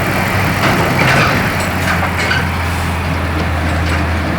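Truck engine running steadily with a low hum that evens out about halfway through, under a hiss and a few light clicks or rattles.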